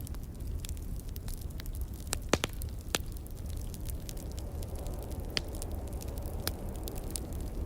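Log fire crackling with scattered sharp pops, a few louder ones about two and three seconds in, over a steady low rumble of wind.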